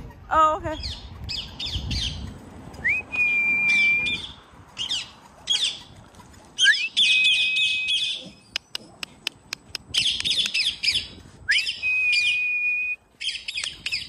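Birds squawking and chirping in quick sweeping bursts. A whistle that rises and then holds one steady note for about a second comes three times, and a run of sharp clicks falls a little past the middle.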